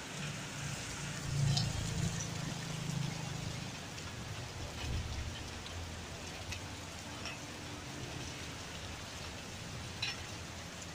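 Light rain falling steadily, with scattered drops ticking on a surface. A low rumble swells in the first few seconds and fades.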